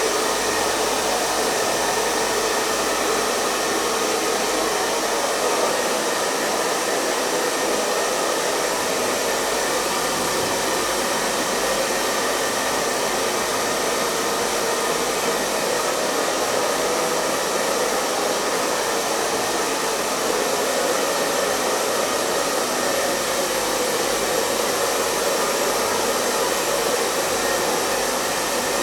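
Hair dryer running steadily: an even, unbroken blowing hiss with a faint steady hum in it.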